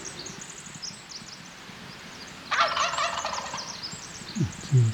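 Wild turkey gobbler gobbling once, loud and close, about two and a half seconds in, over steady high songbird chirping.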